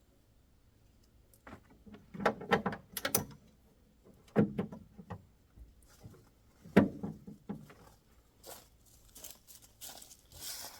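Handling noises from hooking a bungee cargo net onto a pickup truck bed: several short runs of clicks and knocks from the hooks, the loudest about seven seconds in, then rustling near the end.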